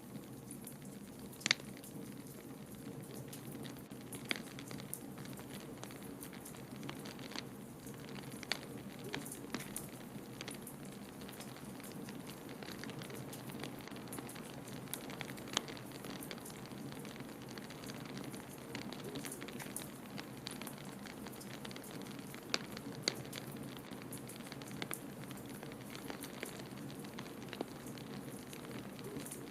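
Wood fire crackling in a fireplace, with irregular sharp pops, over a steady low rush of blizzard wind.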